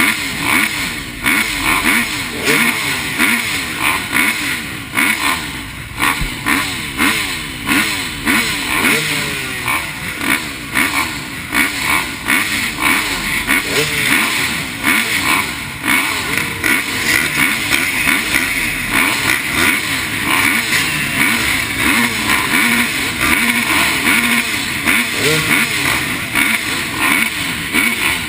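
Several motocross dirt bikes racing on a track, their engines revving up and down as they rise in pitch and shift, overlapping one another.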